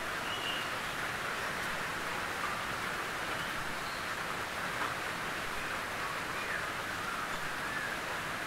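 Gentle rain falling steadily on a tin roof, an even hiss of drops.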